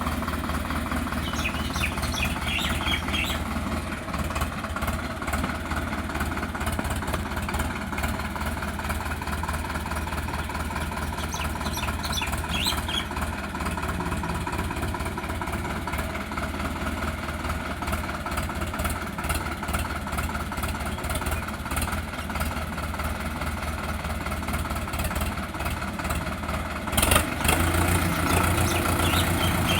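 Sonalika DI 750 tractor's diesel engine running steadily with a low, even pulse. Near the end there is a sudden loud knock, after which the engine sounds louder.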